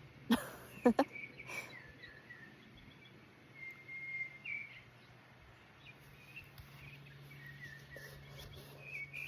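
Birds calling in short, high chirps and gliding notes, spaced out over several seconds. Two sharp, loud sounds come within the first second.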